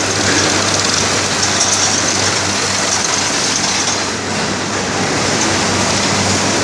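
Heavy machinery running steadily: a loud, even mechanical din with a low hum underneath.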